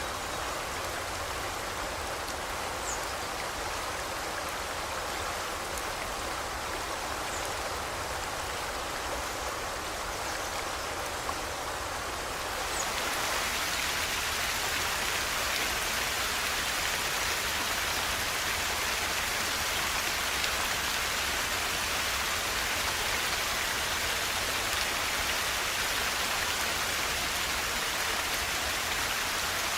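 Flowing river water, a steady rushing hiss. About thirteen seconds in, it abruptly becomes louder and brighter. A few faint high chirps sound in the first half.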